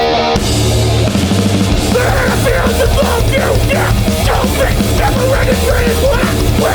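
Hardcore punk band playing live: distorted electric guitars, bass and drums come in together less than a second in and drive on loud and fast, with a quick repeating guitar figure from about two seconds in.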